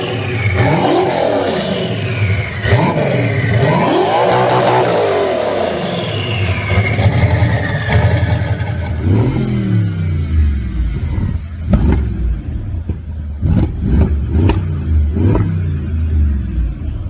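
Performance car engines revving hard, pitch sweeping up and down. About halfway through a deeper-sounding engine takes over and gives several short, sharp throttle blips.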